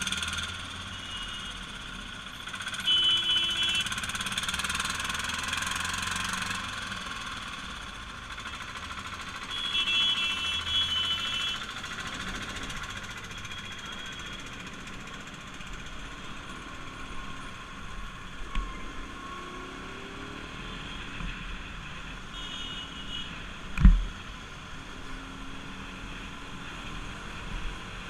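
Bajaj Pulsar RS200's single-cylinder engine and wind noise on a motorcycle ride through traffic, with short horn blasts a few seconds in, around ten seconds in and again near the end. A single sharp thump about twenty-four seconds in is the loudest sound.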